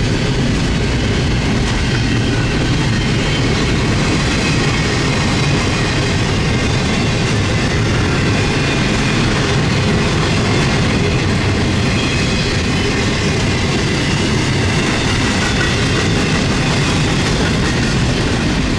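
CN intermodal freight train passing close by: a steady, loud rumble and rattle of steel wheels rolling on the rails.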